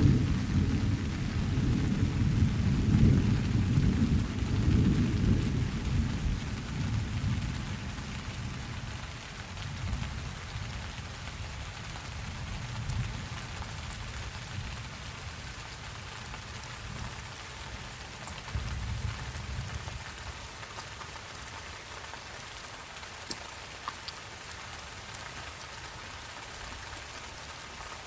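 Steady rain with a low rolling rumble of thunder that fades away over the first several seconds; a fainter rumble returns briefly about two-thirds of the way through.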